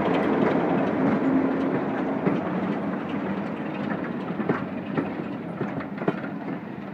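Diesel-hauled train passing: the rumble of a Class 33 locomotive and its carriages fades steadily, with wheels clicking over rail joints in the second half.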